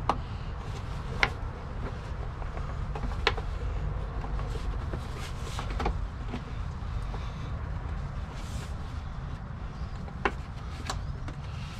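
Sharp plastic clicks and knocks of the air box lid and its spring clips being fitted and snapped shut, about six spread over the stretch, two of them close together near the end, over a steady low background rumble.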